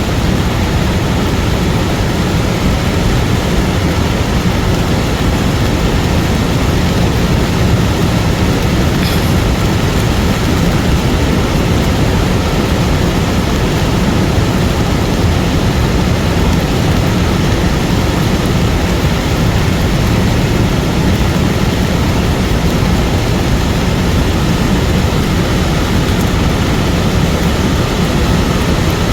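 Cold lahar flood of water, mud and volcanic debris rushing down the river channel: a loud, steady, deep roar that does not let up.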